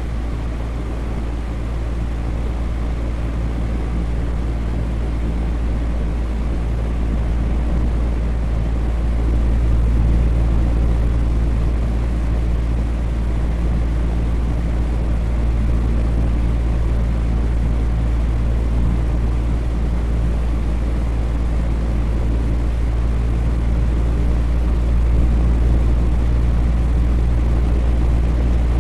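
Electric fan running steadily: a low, even whirring hum with no changes.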